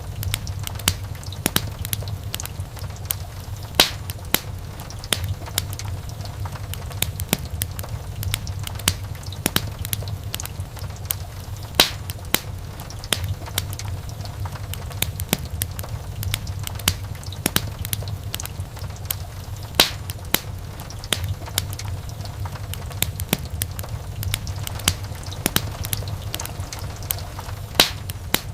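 Wood fire burning in a fireplace: irregular crackles and sharp pops over a steady low rumble of the flames, with a few louder snaps standing out.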